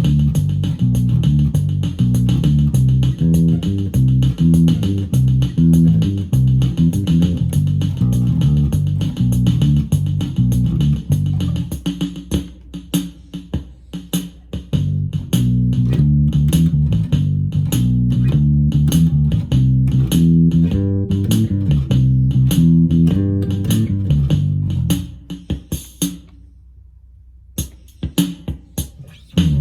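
Electric bass guitar improvising a bassline through a Roland Micro Cube Bass RX amp, over the amp's built-in rhythm-box drum pattern. The bass drops out for a moment about halfway through, leaving the drums. Near the end both stop for about two seconds, then the drums come back in ahead of the bass.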